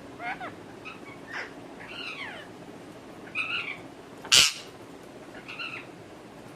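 Pet parrot giving a string of short pitched calls, several with falling glides, and one loud harsh screech about four and a half seconds in.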